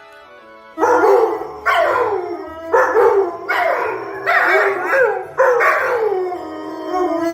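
A dog giving a run of about six loud, drawn-out calls, each starting high and falling in pitch, over faint background music.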